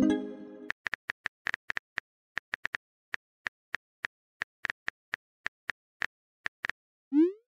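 A phone message notification tone at the start, then irregular keyboard tap clicks, a few each second, as a text is typed out. A quick rising pop comes near the end.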